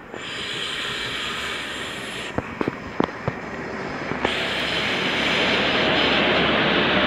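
TransPennine Express Class 185 diesel multiple unit running into the station: a steady rush of engine and wheel noise with a few sharp clicks around the middle, growing louder after about four seconds.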